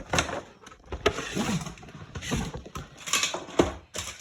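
Toy packaging being handled and opened: a series of uneven rustles and scrapes with a few sharp knocks.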